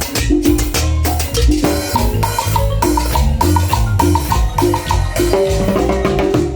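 Latin dance music led by marimba, with bass and drums keeping a steady beat.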